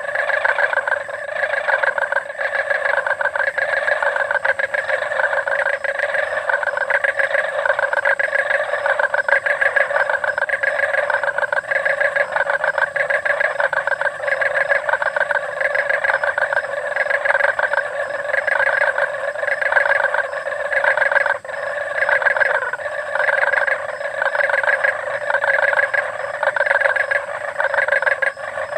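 Chorus of many frogs calling at a pool at night: a dense, continuous mass of rapid pulsed croaks that swells and eases about once a second, dipping briefly about two-thirds of the way through.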